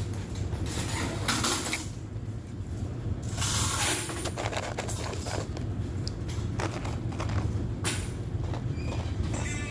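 Ice being crunched and chewed in a few short bursts, over the steady low hum of laundromat washers and dryers.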